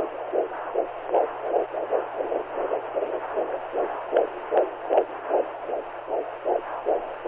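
Womb sound for soothing a newborn: a whooshing hiss that pulses steadily like a heartbeat, about two and a half pulses a second, over a faint low hum.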